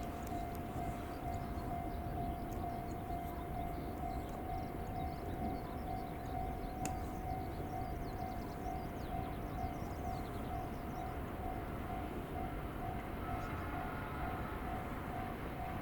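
Railway level crossing alarm ringing in a steady, evenly repeating tone, over a low rumble.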